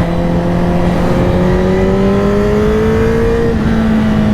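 Honda CBR1000RR-R's inline-four engine pulling under light throttle while riding, its pitch rising slowly, with a change in tone about three and a half seconds in, over steady wind rush.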